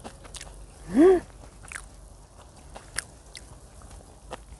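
Close-up chewing of a bite of chewy pig-blood buckwheat pancake: soft, wet mouth clicks, with one short hummed "mm" that rises and falls about a second in.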